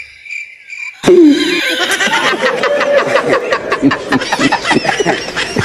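Laughter, starting about a second in and continuing in quick, uneven bursts.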